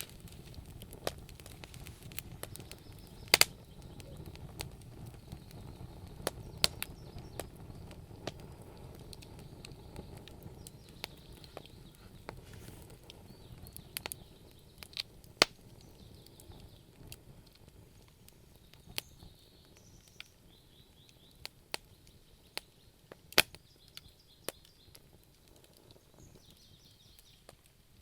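Wood fire crackling in a fireplace: irregular small snaps with a few sharp louder pops, over a low rumble of the flames that dies down about halfway through.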